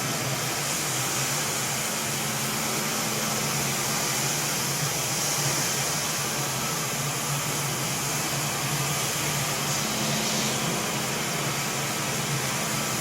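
ICE i20 walk-behind wet floor scrubber running steadily: an even, high hiss from its suction with a low hum underneath.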